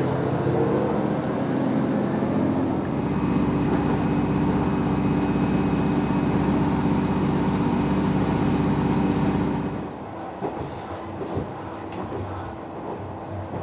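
Diesel railcar of the Matsuura Railway running under power, a steady engine drone heard from inside the car. About ten seconds in the engine drops back and the car coasts more quietly, with wheel clicks over the rail joints.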